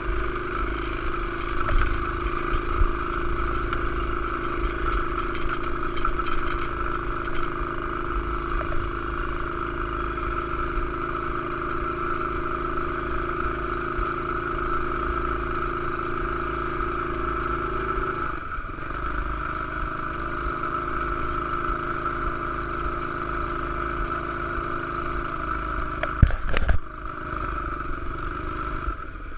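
Pit bike's small engine running at a steady note. About two-thirds of the way through the pitch dips briefly and then holds a little lower, and a sharp knock comes near the end.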